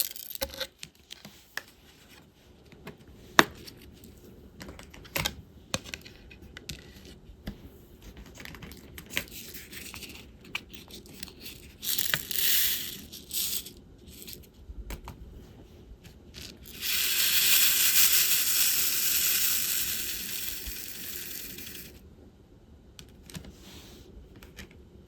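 Small plastic clicks and taps of diamond painting work: a drill pen picking up resin drills and pressing them onto the adhesive canvas, with one sharper tap early on. Past the middle comes a steady rattling rush lasting about five seconds, which fades before it stops, typical of drills being shaken or stirred in a plastic tray.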